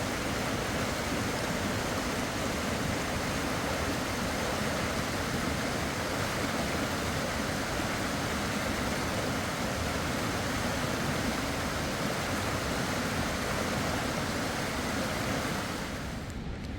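Fast-flowing river water rushing steadily; it drops away suddenly near the end.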